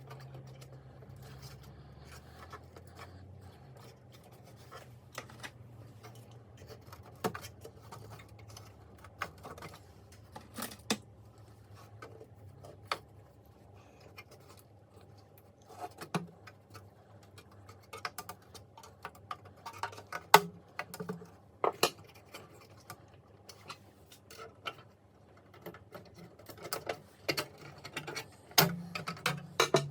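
Irregular clicks, taps and scrapes of small parts and tools being handled, more frequent in the second half, over a low steady hum.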